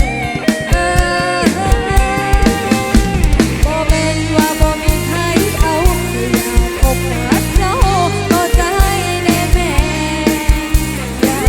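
Live band playing loud amplified music: a drum kit keeps a steady beat under held chords, with a wavering melody line partway through.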